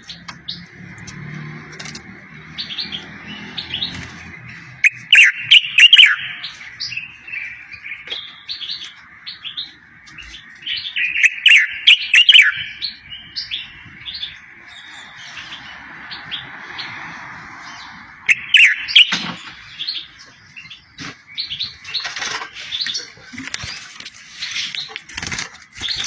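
A songbird singing, used as a tutor song for training goldfinches and canaries: a phrase of quick, falling whistled notes repeats about every six seconds, with short chirps scattered between. Near the end the chirping grows denser.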